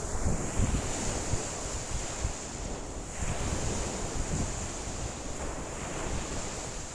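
Choppy lake waves washing and breaking against the shore, with strong wind gusting across the microphone as an uneven low rumble.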